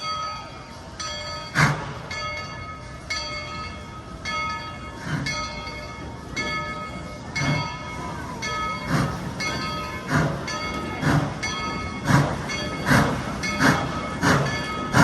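Coal-fired steam locomotive pulling away: exhaust chuffs that speed up from about one a second to nearly two a second, with the locomotive bell ringing over them.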